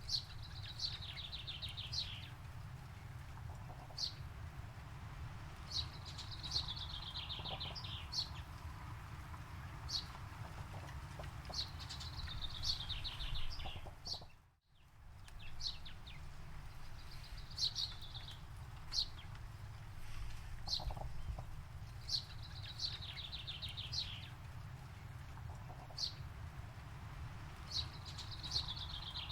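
A songbird singing the same short phrase over and over, a quick run of falling notes repeated about every five or six seconds, with single short high notes between the phrases, over a steady low rumble. The whole track dips to near silence for a moment about halfway.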